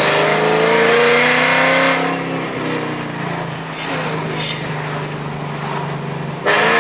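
Ford Mustang GT V8, fitted with headers, an X-pipe and the factory muffler, accelerating loudly, its pitch rising for about two seconds. It then eases back to a steadier drone. A sudden loud burst comes near the end.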